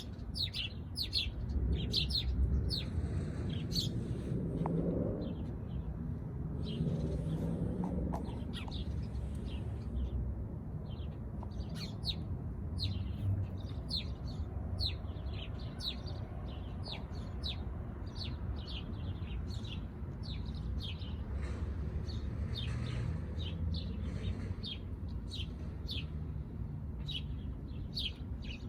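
Small birds chirping: many short, high chirps, several a second, over a steady low rumble.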